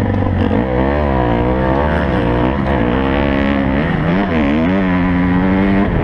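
Motocross bike engine revving up and down, its pitch rising and falling every second or so as the throttle is worked, over a steady low drone.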